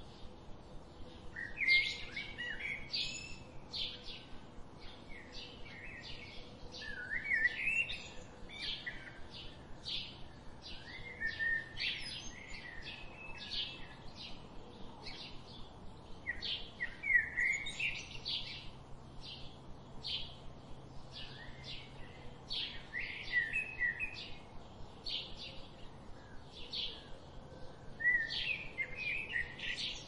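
Small birds chirping and singing: rapid, short, high chirps throughout, with brief warbling song phrases every few seconds.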